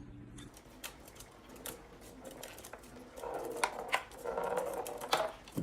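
A dog whining in a drawn-out, wavering voice for about two seconds, starting about three seconds in, over the clicking of a computer keyboard being typed on.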